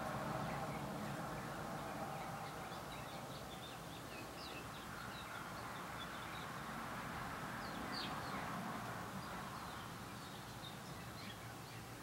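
Small songbirds chirping: many short, high chirps scattered throughout, over a faint low rumble that fades away in the first couple of seconds.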